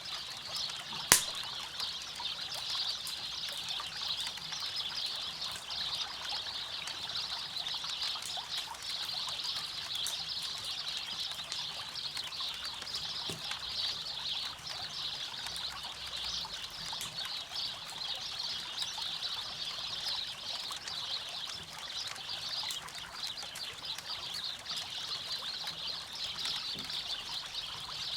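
River water running steadily alongside a crackling campfire: scattered small pops of burning wood, with one sharp, much louder crack about a second in.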